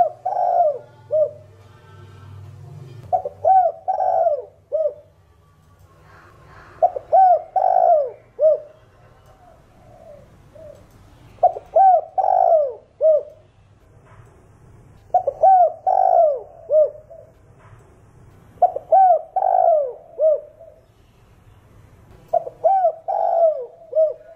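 Spotted dove cooing: a phrase of several quick coos repeated about every three to four seconds, seven times.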